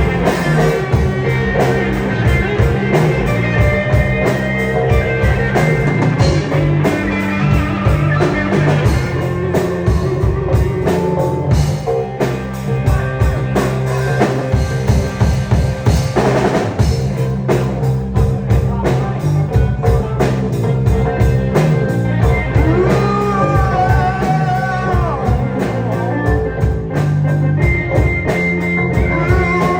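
Live rock band playing an instrumental passage: electric guitar over bass and a steady drum-kit beat, with gliding lead guitar lines in the last third.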